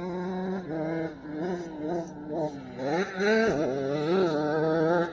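Dirt bike engines revving up and down in the distance, their pitch repeatedly rising and falling over a steady drone.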